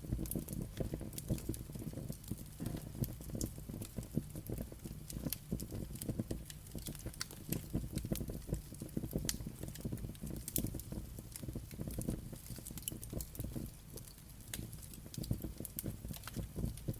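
Wood fire burning with a low steady rumble and frequent irregular crackles and pops.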